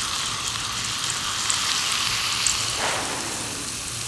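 Bath bomb fizzing in water: a steady hiss with tiny scattered crackles.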